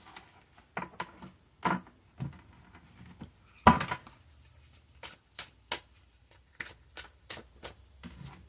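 Tarot cards being handled: a string of short sharp clicks and taps, the loudest a little under four seconds in, coming closer together, about three a second, in the second half.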